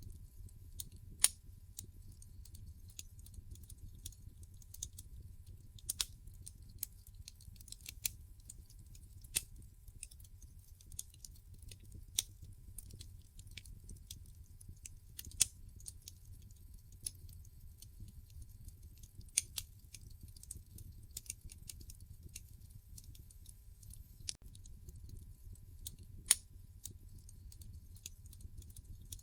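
Wood fire crackling in a fireplace: irregular small snaps and pops, with a handful of louder sharp pops several seconds apart, over a low steady rumble.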